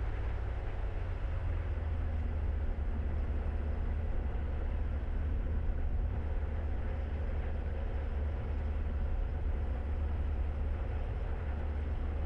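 Light aircraft's piston engine and propeller running at low taxi power, heard from inside the cockpit as a steady low drone.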